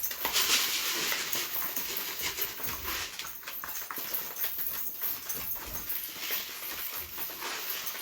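Domestic pigeons moving about: a continuous scratchy rustle of wings and feet with many small taps.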